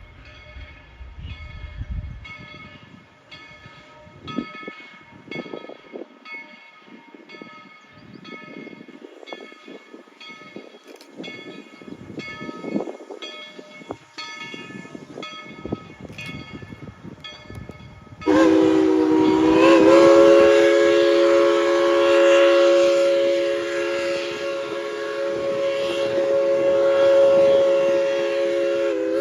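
Steam locomotive bell ringing steadily, about one and a half strokes a second. About eighteen seconds in, the chime steam whistle of Tweetsie Railroad No. 190, a Baldwin 2-8-2, opens up loud with several notes at once and holds one long blast.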